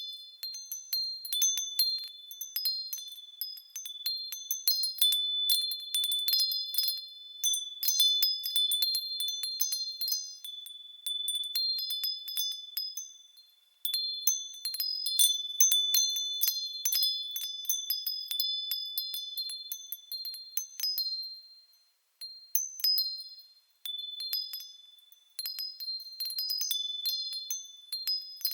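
Japanese wind chimes (fūrin) struck irregularly by the breeze, ringing high, clear tones at several pitches. The ringing dies away almost to nothing about halfway through and again around three quarters of the way in.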